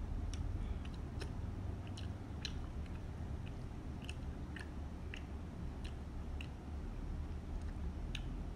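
Close-miked chewing of a mouthful of instant noodles: soft wet mouth sounds with short sharp clicks every second or so, over a low steady hum.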